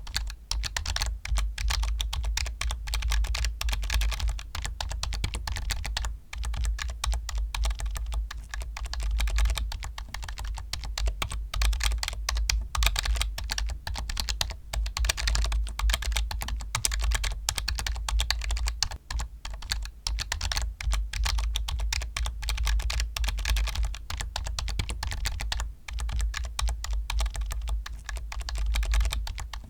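Continuous fast typing on a computer keyboard: a dense run of key clicks, broken by a few short pauses.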